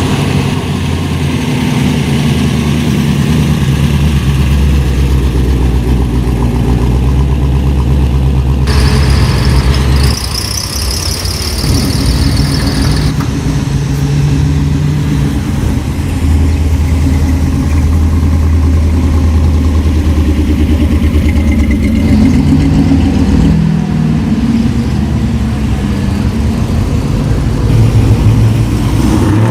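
Car engines running loud and close, idling with occasional revs. A high whine sounds for about three seconds, starting about ten seconds in.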